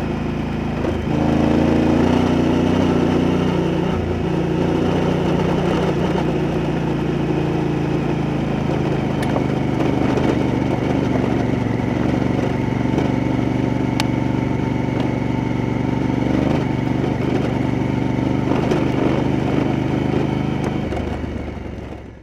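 Honda Africa Twin motorcycle's parallel-twin engine running at a steady, even pace while riding, with a couple of brief changes in pitch in the first few seconds. The sound fades out near the end.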